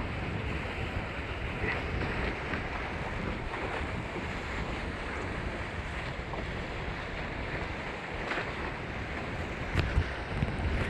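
Wind buffeting the microphone and water rushing past the hulls of a Hobie 16 catamaran sailing fast, with a few short splashes and knocks near the end.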